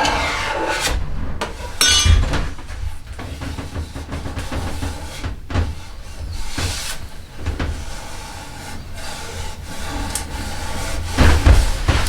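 Hand tools working a yew bow stave: irregular scraping and rubbing strokes on the wood, broken by sharper knocks.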